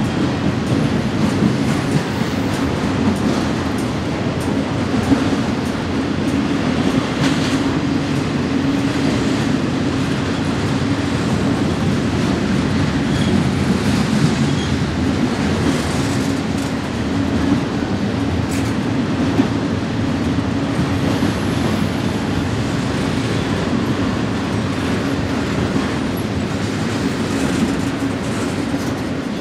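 Double-stack intermodal container train of well cars rolling past: a steady rumble of steel wheels on the rails, with a few sharp clicks scattered through it.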